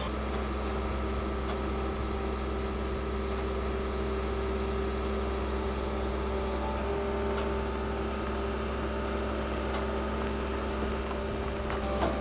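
A machine running steadily with an even hum and a few steady tones, with a small knock near the end.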